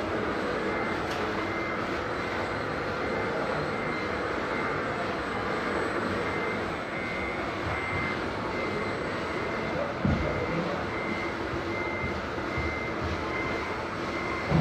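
Radio-controlled model truck running steadily, with a faint beeper repeating about once a second, like a reversing alarm. A short thump comes about ten seconds in.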